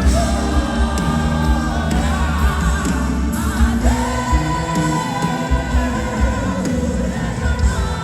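Live Christian worship music: a sung vocal line with vibrato over a full band with steady bass and drums.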